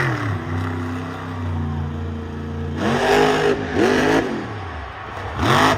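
Monster truck engine revving in bursts: it drops to a steady lower note, then the revs rise sharply twice, about three and four seconds in, with another quick blip near the end.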